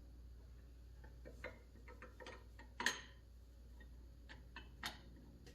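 Faint, irregular metal clicks and taps from hand tools being handled on the hydraulic cylinder, the loudest about three seconds in, over a low steady hum.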